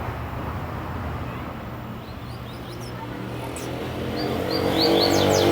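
A motor vehicle's engine running with a steady hum that grows louder near the end. A double-collared seedeater (coleiro) gives quick high chirping notes over it in the last couple of seconds.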